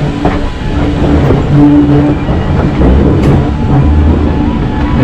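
Heritage railway train running along the track, a loud, steady rumble with rattling from the rails and carriages.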